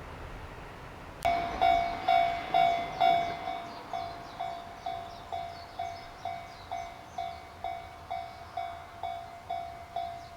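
Railway level-crossing warning bell starts about a second in and rings in a steady ding-ding, about two strokes a second. The first few strokes are the loudest. It is the crossing's signal that a train is approaching.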